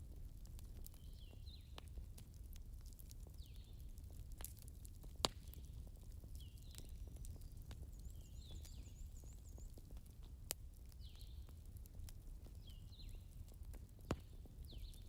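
Wood campfire crackling with scattered small clicks and two sharp pops, over a low steady rumble. A small bird repeats a short falling chirp every second or two, with a quick high trill about eight seconds in.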